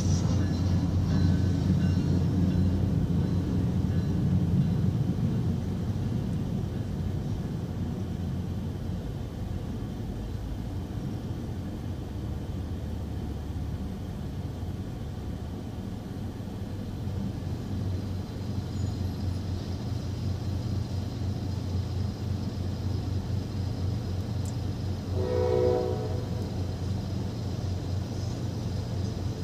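Tri-Rail commuter train rumbling through a road crossing, its low rumble strongest at first and fading away over the first ten seconds or so. About 25 seconds in, a train horn sounds one short blast.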